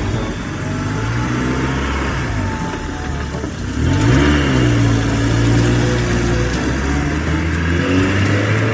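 Heavy vehicle engine sound running steadily, its pitch dipping and then revving up about four seconds in.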